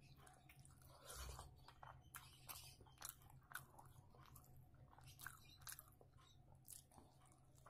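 Quiet, close-up chewing of rice and fried boiled egg, with frequent short, wet mouth clicks and smacks.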